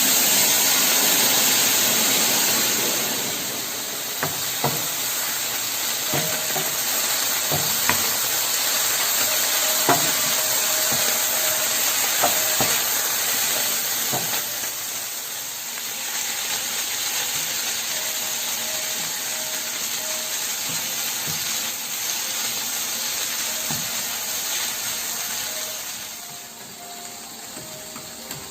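Kimchi fried rice sizzling in a frying pan, with a spatula knocking and scraping against the pan every second or two as it is stirred. The sizzle is loudest for the first few seconds and drops off near the end.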